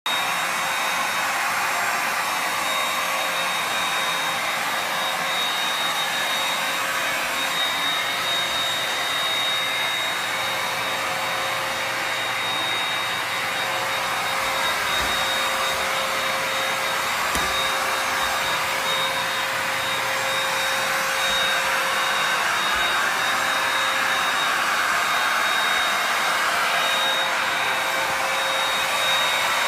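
Dibea stick vacuum cleaner running steadily: a constant rush of air with a steady high motor whine.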